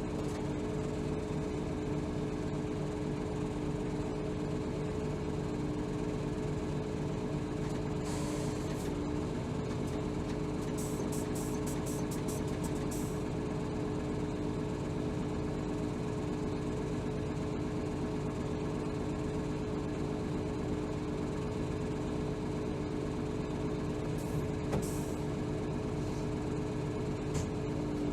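Interior sound of a 2007 Hino Rainbow HR (BDG-HR7JPBE) city bus, its diesel engine running steadily at an unchanging pitch. A short hiss comes about eight seconds in, a quick run of ticks follows a few seconds later, and another brief hiss sounds near the end.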